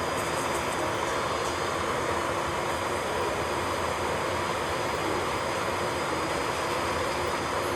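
Electric nail drill (e-file) running steadily, with a faint high steady whine over an even whirring noise.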